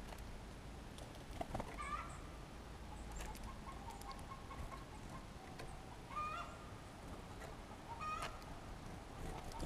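Short nasal bird calls, one every two seconds or so, each a brief rising note, over a low steady background rumble.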